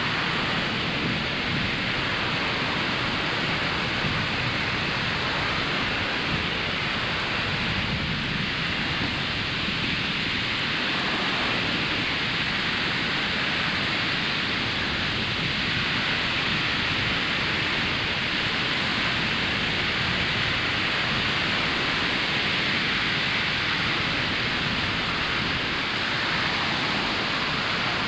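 Ocean surf washing onto a beach: a steady rush of wave noise with only slight rises and falls.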